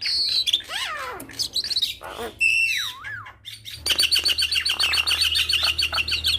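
Javan myna singing a varied song of whistles, harsh notes and sliding calls, breaking into a fast, evenly repeated chatter of short high notes about four seconds in.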